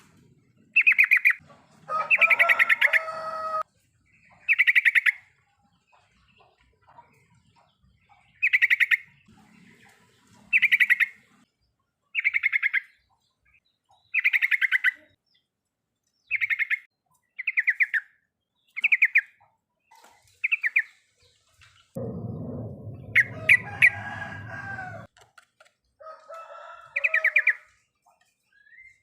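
Yellow-vented bulbul (trucukan) giving 'riwikan' calls: short, fast trilled chirps repeated about every two seconds, with a longer, fuller song phrase about two seconds in. About three-quarters of the way through, a burst of low noise lasting about three seconds runs under the calls.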